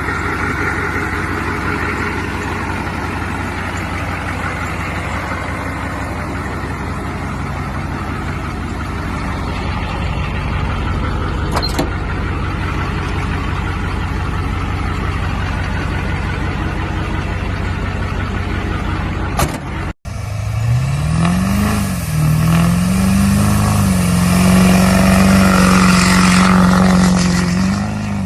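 Truck engine running with a steady low rumble. After a sudden cut, an engine revs up twice and then holds at high revs.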